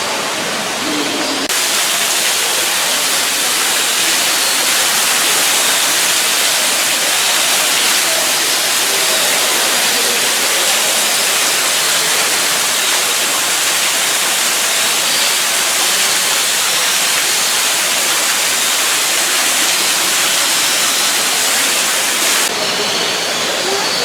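Rushing water, a steady, even rush like a waterfall, that cuts in fuller about a second and a half in and drops back near the end.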